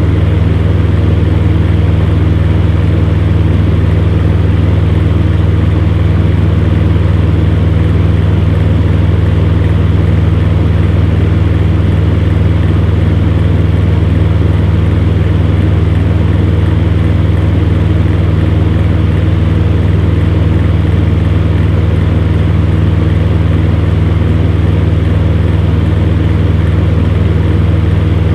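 Electric fan heater running steadily: a constant low hum from the fan motor under an even rush of blown air.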